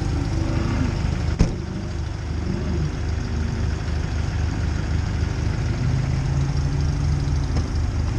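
John Deere 318 garden tractor's engine running steadily with its Model 49 snowblower, an even low pulsing throughout. A single sharp knock about a second and a half in.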